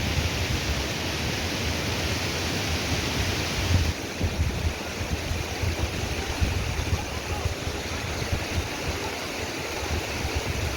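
Steady rushing of water with an unsteady low rumble underneath, loud and unbroken.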